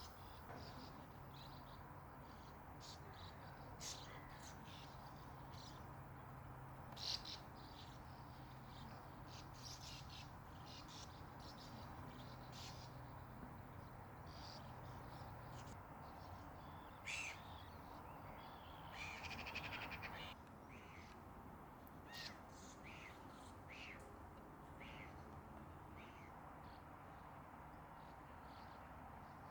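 Faint calls of small birds: scattered short chirps throughout and a longer buzzy trill about 19 seconds in. A faint, steady low hum runs underneath and stops about 16 seconds in.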